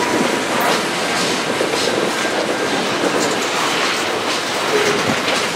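Freight train of tank cars rolling past at close range: a steady rumble of steel wheels on rail, with irregular clickety-clack from the wheel sets.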